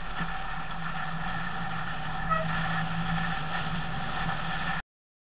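Austin Mini's A-series four-cylinder engine running steadily under way, heard inside the car with road noise, and a brief short high tone about two seconds in. The sound cuts off abruptly near the end.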